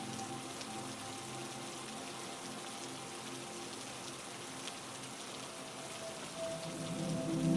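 Steady heavy rain, an even hiss of falling drops, with a low sustained drone of held tones underneath that swells louder near the end.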